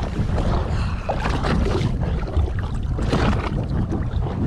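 Wind buffeting the microphone on a boat at sea, with a steady low rumble and a rushing noise of wind and water.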